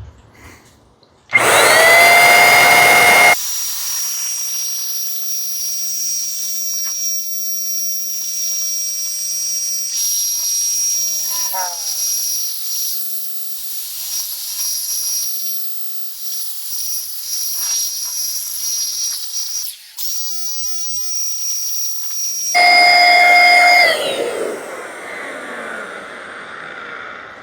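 An electric power tool's motor spins up with a rising whine about a second in and runs loud for a couple of seconds. It keeps running more quietly with a steady high hiss, surges loud again for a moment near the end, then winds down with a falling whine.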